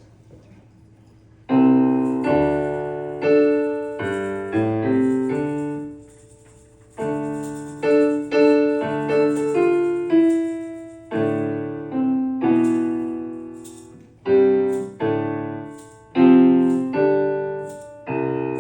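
Solo piano playing a song's introduction: chords struck and left to ring and fade, starting about a second and a half in, with a brief pause about halfway through before the playing resumes.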